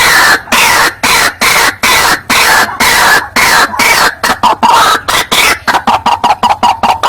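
White-breasted waterhen (ruak-ruak) calls on a bird-lure recording: loud, harsh, repeated croaking notes, about two or three a second, quickening into a rapid run near the end.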